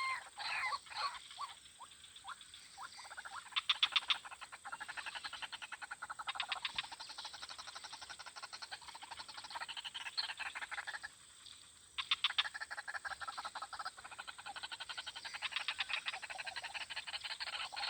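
Animal calls: long runs of a rapid pulsing trill, a few falling call notes at the start, and a short break about two-thirds of the way through.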